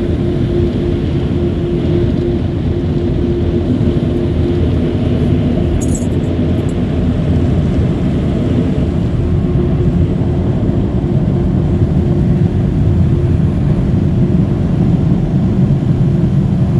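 Automatic car wash machinery running: a steady low rumble with a steady hum, and a brief click about six seconds in.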